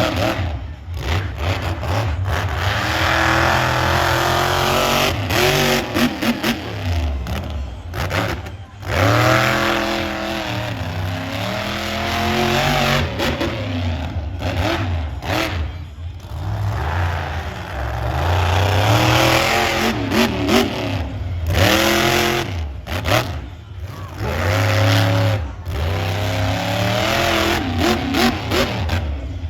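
Monster truck engine revving hard, its pitch rising and falling again and again as the throttle is worked, with several brief sudden drops in sound.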